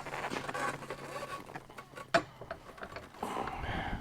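Metal clicks and rattles of a truck seat base and its seat mechanism being handled and fitted together, with one sharp click about two seconds in. A steady low hum runs underneath.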